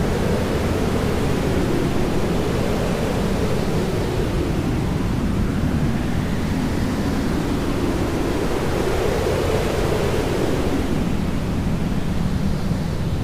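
Jet aircraft passing, a steady loud rushing roar whose tone sweeps slowly up and down mid-way through.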